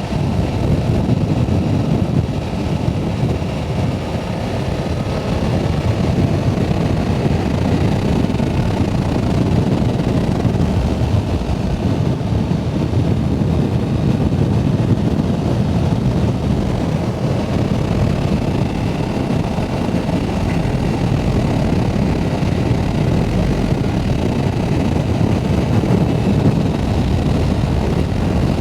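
A Yamaha R7, a 689 cc parallel-twin sportbike, being ridden, heard from the rider's camera: a steady, loud rush of wind noise with the engine running underneath.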